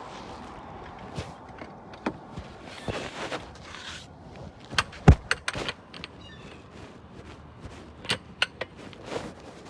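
Scattered knocks and clunks of things being handled, with one loud thump about five seconds in.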